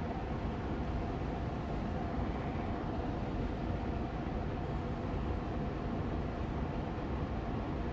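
Air purifier fan running steadily on medium speed: a constant hum and whoosh of moving air, with a few faint steady tones under the rush.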